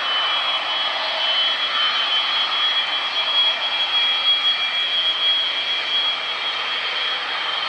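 Jet airliner's turbofan engines running, a steady rush of noise with a high, steady whine over it.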